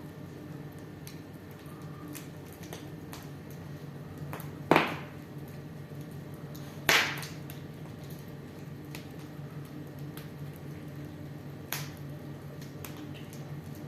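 Wood fire burning in a fireplace, crackling with small scattered snaps and two loud pops about five and seven seconds in, and a smaller one near the end.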